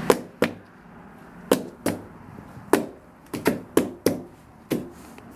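A series of about ten sharp knocks at uneven spacing, some coming in quick pairs, each with a short ring after it.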